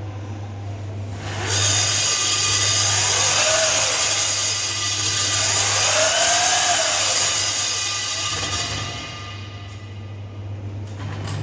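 Core drilling machine cutting into a wall: the motor's steady hum swells about a second in into loud grinding as the bit bites, its pitch rising and falling twice. It eases back to a lighter running hum near the end.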